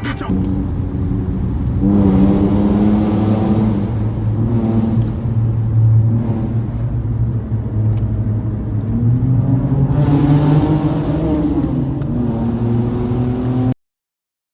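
Muffler-deleted Mercedes-Benz C300 running loud under hard acceleration, the engine note climbing in pitch about two seconds in and again about nine seconds in. The sound cuts off suddenly near the end.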